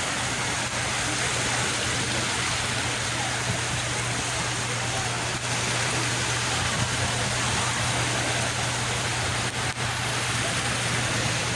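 Steady wash of sea waves, a continuous hiss of moving water with no distinct breaking crests, over a constant low hum.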